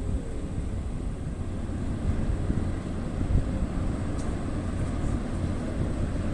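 Low, steady rumble of an arriving car ferry's engines, with wind buffeting the microphone.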